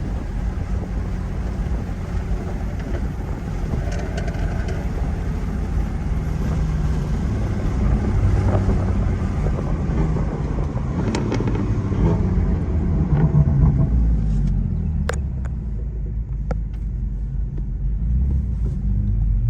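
Car engine and exhaust rumbling steadily under way, the engine note rising and falling and getting louder around the middle.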